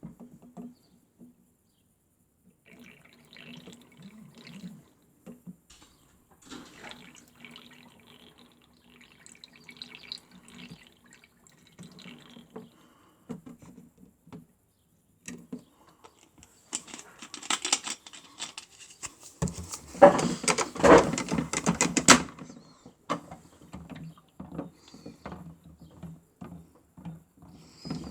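Miele W1 toy washing machine with water trickling and splashing in its drum, over a faint low hum. The splashing grows loudest in a stretch a little past the middle.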